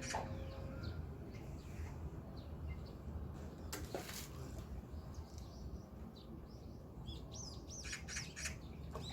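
Small birds chirping and singing at dawn, with scattered short chirps and a burst of quick whistled notes that rise and fall near the end. One sharp knock comes a little before the middle, over a steady low rumble.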